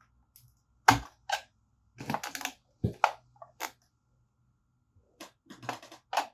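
A broken motorcycle headlight housing being pried apart: a series of sharp, irregular cracks and clicks, the loudest about a second in, with another cluster near the end.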